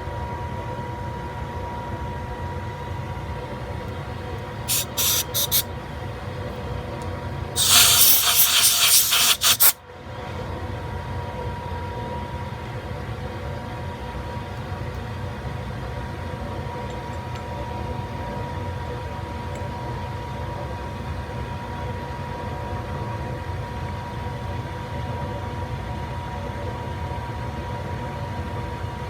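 Monarch 10EE lathe running steadily with a constant hum and tone during thread cutting. It is interrupted by three short hissing blasts, then a louder hiss lasting about two seconds that cuts off suddenly.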